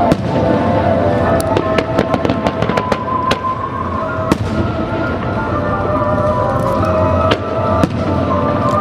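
Fireworks bursting with sharp cracks, a rapid string of them in the first few seconds and scattered single ones after, over music.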